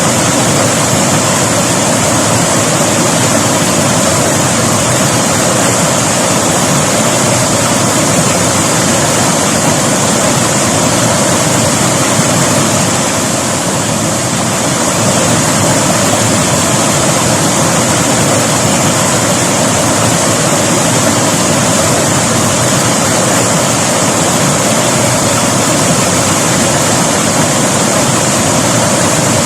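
River water rushing over rocks, a loud steady rush that eases slightly about halfway through.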